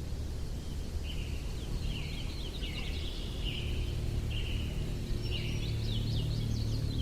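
A songbird singing repeated short phrases of quick chirps and trills, a new phrase every second or so, over a steady low rumble.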